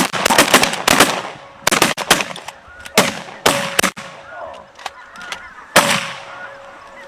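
A rapid volley of shotgun blasts from several guns, densest over the first four seconds with one last shot near six seconds, as snow geese call around the decoys.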